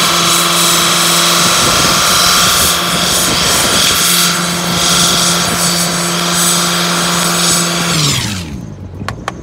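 Turbocharged Chrysler PT Cruiser's four-cylinder engine held at high, steady revs while its front tyres spin in a burnout, with a dense hiss from the spinning tyres. About eight seconds in the revs fall away and the sound drops off.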